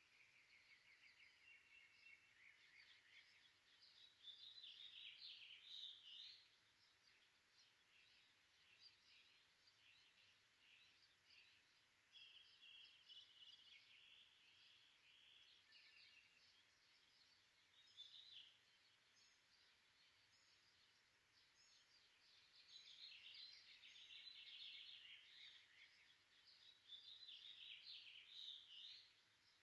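Faint birdsong: small birds chirping and trilling in short bouts, several times over, above a low background hiss.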